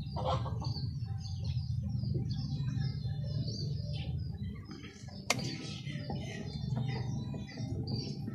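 Small birds chirping over and over, with a sharp snip of scissors cutting a plastic straw about five seconds in, over a low steady hum.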